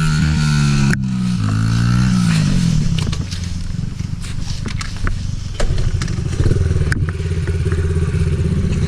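Small off-road vehicle engine: it winds down from a rev about a second in and runs low and uneven, then picks up again about five and a half seconds in. Scattered clicks and knocks sound over it.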